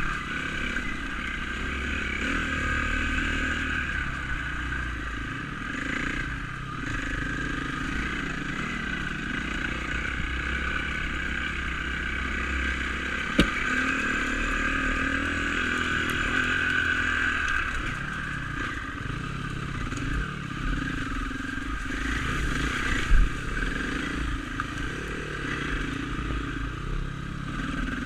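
Dirt bike engine running while being ridden, its revs rising and falling, with a couple of sharp knocks from the bike over rough ground, at about 13 and 23 seconds in.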